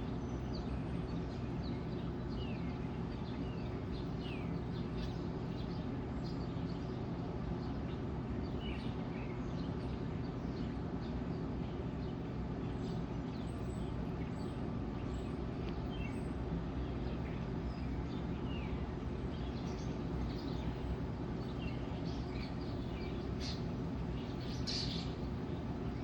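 Songbirds chirping and calling in short notes throughout, a little busier near the end, over a steady low hum.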